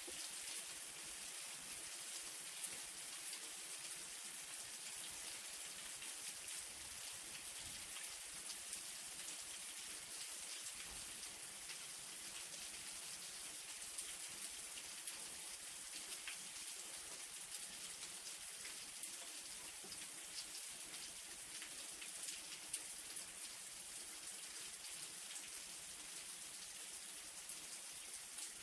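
Light rain falling steadily: an even high hiss with scattered small drop ticks.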